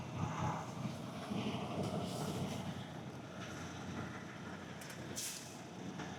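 Semi-truck diesel engine running at low speed while the rig is worked into a parking spot on an icy lot, the driver struggling to get traction. Short bursts of hiss come about two seconds in and again, louder, about five seconds in.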